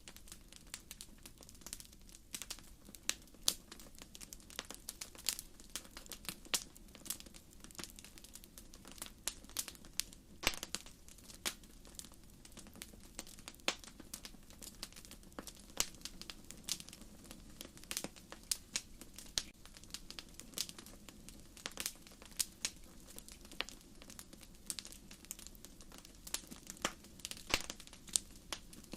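Firewood burning in an open wood fire, crackling with irregular sharp pops and snaps, several a second. Beneath them runs a low, steady sound of the flames.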